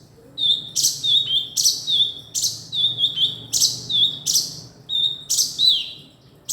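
Male kinoi bird calling over and over, each call a short high note with a quick dip in pitch followed by a sharp, loud chirp, repeated roughly every second.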